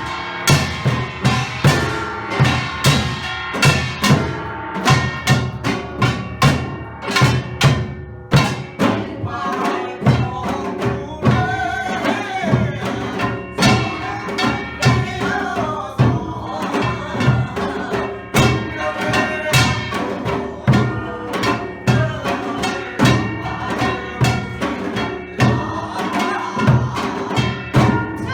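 Samul nori percussion ensemble playing a fast, steady rhythm on Korean drums and gongs (janggu, buk, kkwaenggwari and jing), with voices singing along at times.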